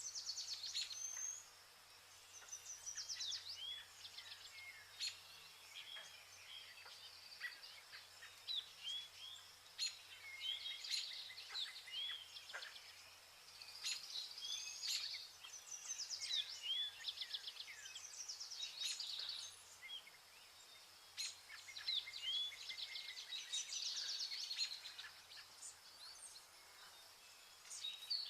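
Vernal hanging parrots chirping: many short, high, thin calls and quick buzzy trills, coming in bunches every second or two.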